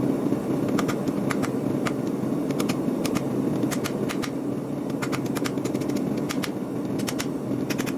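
Steady rumble of a forge burner, with many short sharp ticks and clicks coming irregularly, often two or three in quick succession.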